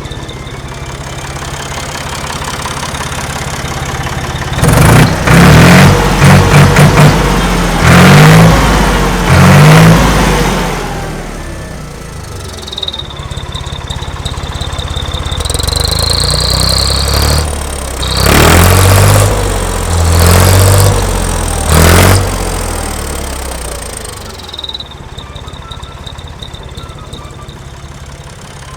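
Ford 4600 tractor's three-cylinder engine, breathing through a Peugeot 106 Group N race exhaust, idling and then revved hard in two bursts of sharp throttle blips, several quick ones and then longer revs, dropping back to idle after each. The uploader says it sounds stupid.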